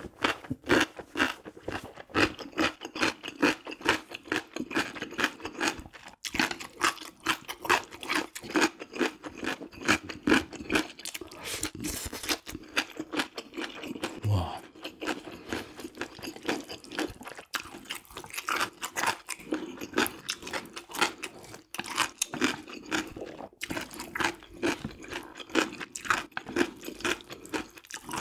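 Close-miked chewing of instant jjajang ramyun noodles with beef topping: a steady, fast run of wet mouth clicks and smacks.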